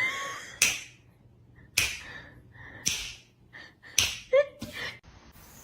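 A series of sharp smacks, roughly one a second and a quick cluster of three near the end, with a few short high squeaks between them.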